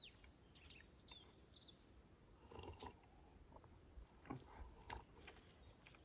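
Faint birdsong: a quick run of high chirping notes that slide downward in the first two seconds, followed by a few faint scattered knocks.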